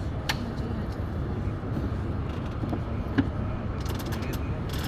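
Steady low rumble of wind and water noise aboard a sailboat under way, with a couple of sharp clicks and creaks from the boat's fittings.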